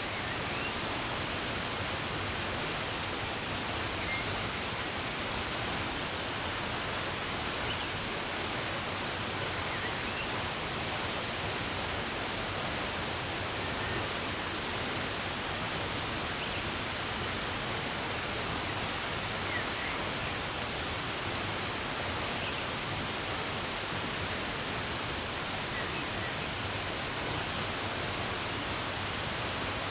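Running water rushing steadily, with faint, scattered bird chirps above it.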